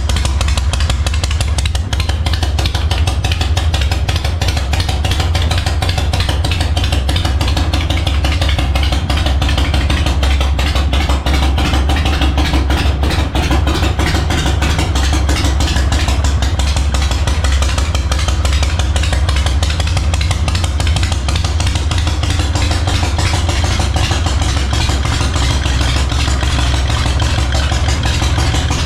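Harley-Davidson Knucklehead V-twin engine running steadily on its first start-up after being built into a 1985 FXR chassis. It fires in rapid, even pulses with a strong low rumble.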